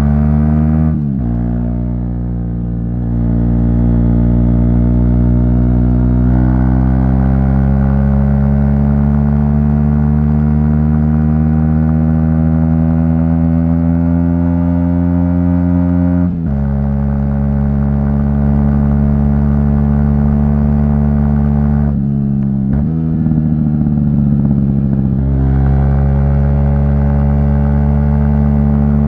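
Aprilia SX 125's single-cylinder four-stroke engine through an Arrow exhaust, pulling under load while riding: the pitch climbs steadily through each gear and drops sharply at the upshifts, about a second in and again around 16 seconds, with a brief dip near the end before it climbs again.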